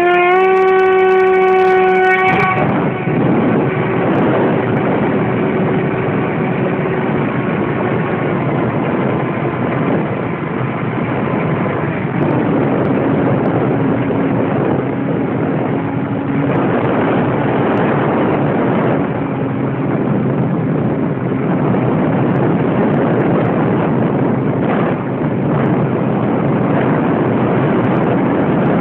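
Radio-control airplane's motor running at high throttle as a steady whine; about two and a half seconds in, the whine gives way to a loud, steady rush of air and motor noise that continues throughout.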